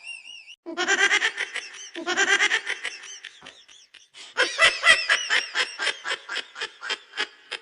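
Laughter in three bouts of rapid, pulsing ha-ha sounds, the last and longest starting about halfway through.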